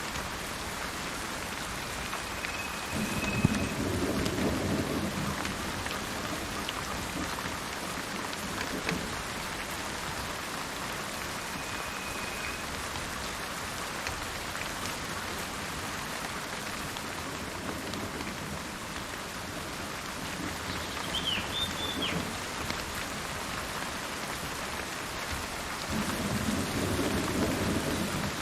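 Steady rain falling, with thunder rumbling twice, a few seconds in and again near the end. A few short, high bird calls sound over the rain.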